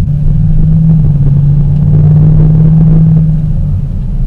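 Holden Ute's engine running under acceleration, heard from inside the cabin: a strong steady low note held for about three and a half seconds, then dropping in pitch near the end.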